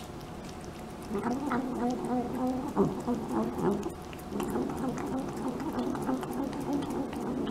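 A cat making low, wavering vocal noises as it eats, in two long stretches broken into short pieces, with small clicks of chewing among them.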